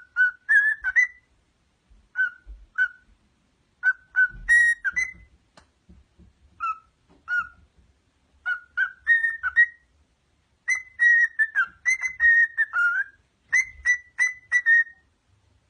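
A pet parrot whistling short, clear notes in quick clusters with pauses between them, the runs growing longer and denser in the second half.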